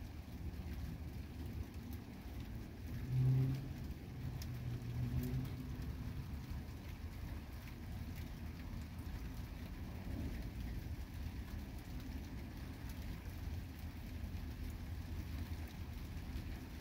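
Light rain falling steadily over a constant low rumble, with a short low pitched hum about three seconds in and again about five seconds in.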